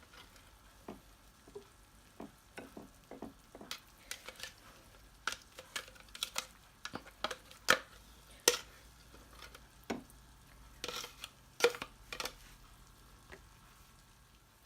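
Thick cake batter being scraped out with a spatula and poured into a glass baking dish: irregular soft scrapes with scattered clinks and taps, a few of them sharper.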